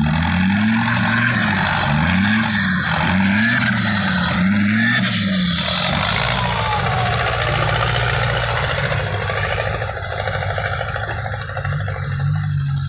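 Dump truck's diesel engine revved up and down in about six quick, even surges, then running steadily at a held speed: a truck working to get through deep, soft mud.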